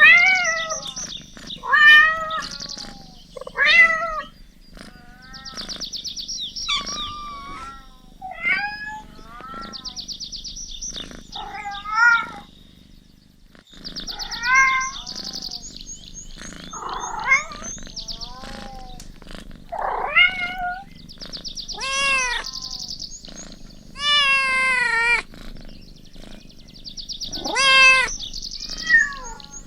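Cats meowing over and over: a long series of short calls, each rising and falling in pitch, about one every second or two. A high, fast buzzing comes and goes between the calls.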